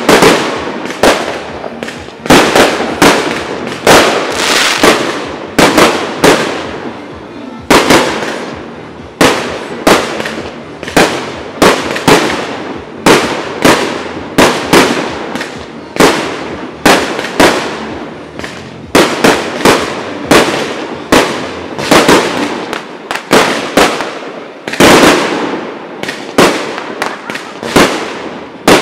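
Fireworks display: aerial shells bursting in quick succession, about one to two sharp bangs a second, each trailing off in crackle, with a brief lull about seven seconds in.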